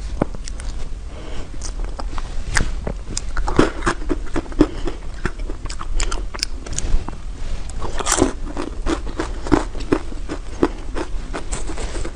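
Close-miked eating: bites and chewing of food, with irregular crisp clicks and wet mouth sounds.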